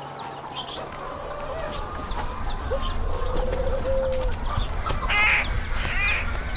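Chickens clucking and smaller birds chirping indoors, with a warbling call about three seconds in and another call near the end, over a low rumble that comes in after about a second.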